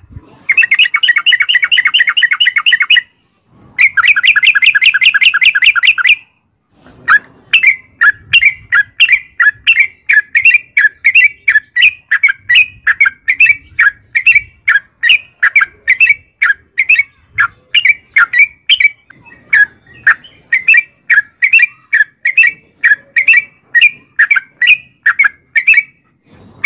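Yellow-vented bulbul (trucukan) calling: two long, fast rolling trills of about three seconds each, then a long run of short chirping notes, about two a second.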